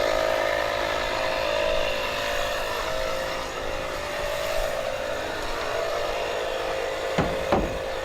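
A vehicle engine running steadily, with two short clicks near the end.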